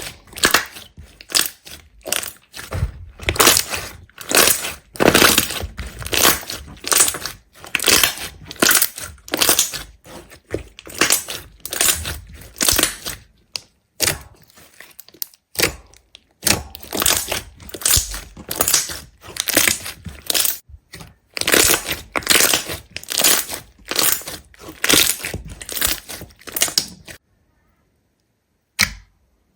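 Repeated crisp crunching and crackling, roughly two bursts a second, as of something brittle being crushed or broken. It stops near the end, with one last short crunch.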